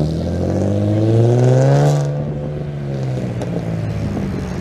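Car engine revving, its pitch rising for about two seconds, then dropping back to a steady idle.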